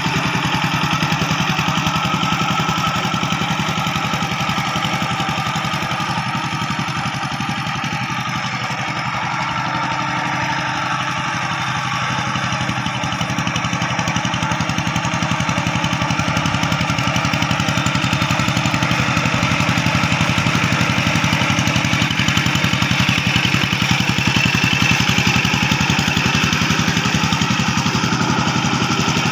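Rice-field tractor engine running steadily while tilling a paddy field. Its level eases a little about a third of the way in, then rises again later.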